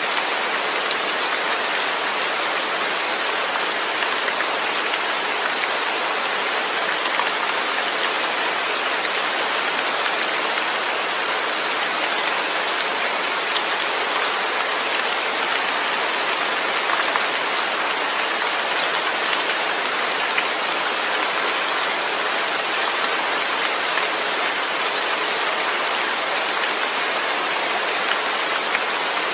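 Steady rain falling: an even hiss of rainfall with faint scattered drop ticks, unchanging throughout.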